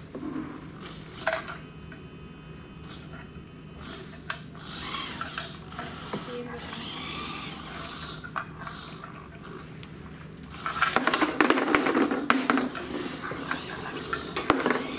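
Small robot's electric drive motors and gears whirring in short whines, with clicks and clatter that get louder and denser about eleven seconds in.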